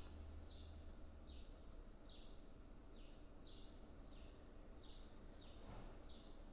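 A bird calling faintly over quiet outdoor ambience: short chirps that fall in pitch, repeated about eight times at roughly even spacing.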